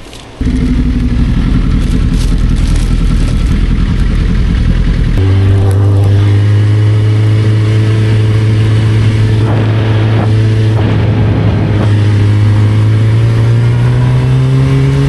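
Motorcycle engine running under way, cutting in abruptly just after the start. About five seconds in it settles into a steady pitched drone, and near the end its pitch rises as it speeds up.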